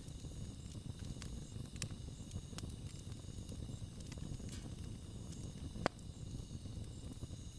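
Wood campfire burning: a low rumble with scattered sharp crackles, and one louder pop about six seconds in.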